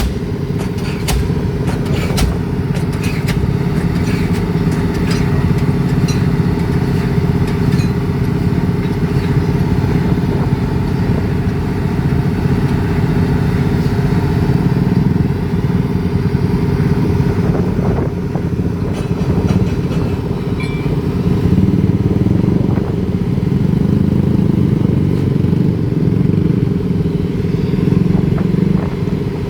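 Heavy diesel engine of a pile-driving rig running steadily, with a few light metallic clanks in the first few seconds.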